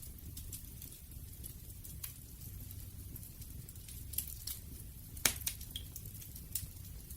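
Campfire burning: a steady low rumble of flames with scattered crackles and pops from the wood, one sharp snap about five seconds in.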